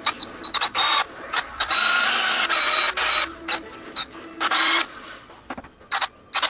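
A small electric motor running in repeated short bursts, each a high whine that starts and stops abruptly.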